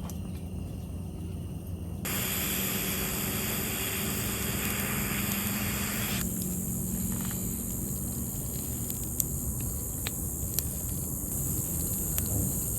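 Food sizzling on a barbecue grill: a steady hiss that gets suddenly louder about two seconds in and thins out abruptly near the middle, with scattered small pops and crackles through the second half.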